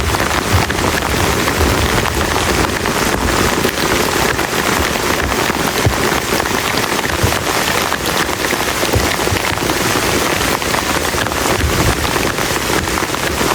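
Heavy rain falling steadily on a plastic tarp shelter, a dense patter of countless drop hits at a constant loud level.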